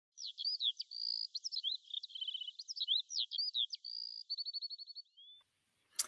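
A bird singing a fast, varied song of quick whistled slurs and short trills, ending in a rapid run of repeated notes; it stops about five seconds in.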